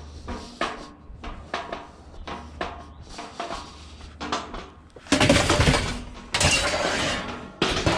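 Scrap wood and metal being handled and loaded into a van: scattered knocks and clatters, then loud scraping and rustling from about five seconds in as pieces are shoved in.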